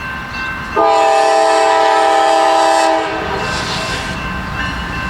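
Norfolk Southern freight locomotive's air horn sounding one long, loud, multi-tone chord blast about a second in, lasting about two seconds, over the low rumble of the approaching train.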